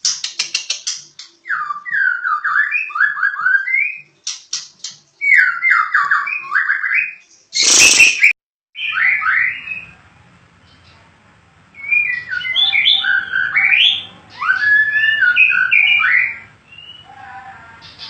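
White-rumped shama (murai batu) singing loud whistled phrases of quick rising-and-falling notes, with a run of rapid ticks at the start and a harsh rasping burst about eight seconds in. After a short quieter gap the bird goes on with more varied whistled phrases.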